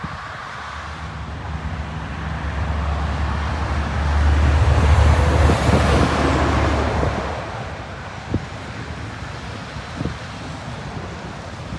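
Jet airliner passing low overhead: a rushing engine roar that builds, peaks about halfway through with a deep rumble underneath, then fades away.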